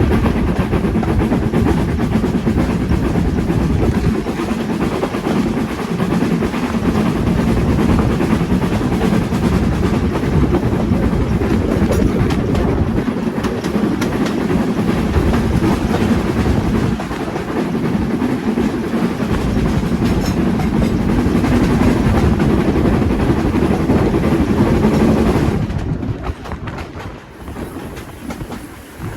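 A steam-hauled heritage train rolling past close by, its wheels clattering over the rail joints in a loud, steady rumble that falls away suddenly about 26 seconds in as the train moves off.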